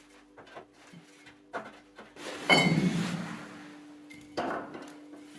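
Bricks being handled and set down dry on a hard base: light knocks, then a louder clatter with a short ringing clink about two and a half seconds in, and another knock with a brief ring near the end.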